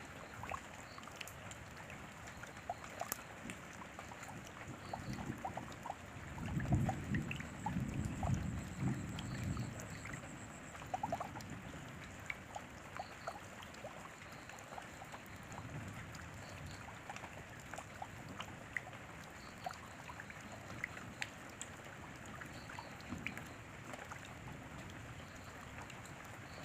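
Rain falling steadily, with many individual drops ticking. A low rumble swells about six seconds in and fades after a few seconds.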